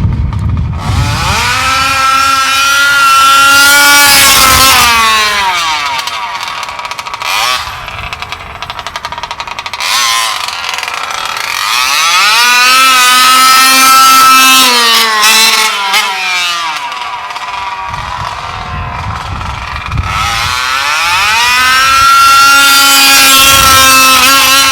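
Bartolone Racing BR40 big-bore two-stroke gas engine in a Losi 5ive-T 2.0 RC truck, run at full throttle three times. Each time the engine climbs to a steady high-pitched scream, then its pitch slides down as the truck goes by and slows, with lower, quieter running in between. The engine is on its third tank, close to broken in.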